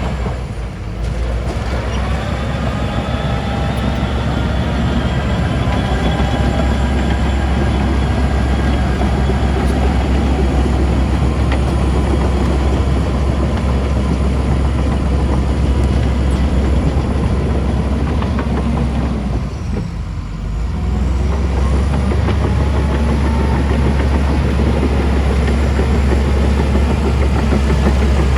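Heavy diesel earthmoving machinery running steadily, with a strong low engine hum under a busy mechanical din. It dips briefly about a second in and again around twenty seconds in.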